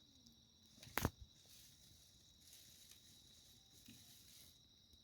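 Near silence: a faint steady high tone in the background, broken by one sharp click about a second in.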